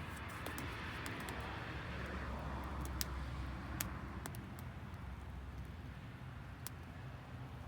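Wood campfire burning damp firewood, crackling with scattered sharp pops, the loudest about three seconds in, over a low steady rumble.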